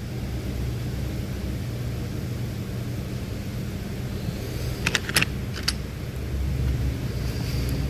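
A steady low mechanical hum, like a running motor or engine, with a quick cluster of sharp metallic clinks from hand tools about five seconds in.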